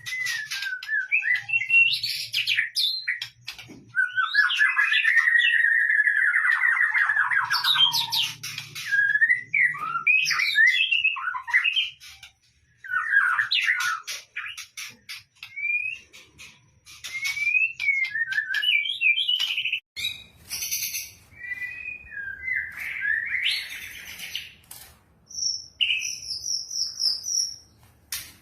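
White-rumped shama singing a varied song of whistles and chirps, with a long rapid trill a few seconds in and short pauses between phrases.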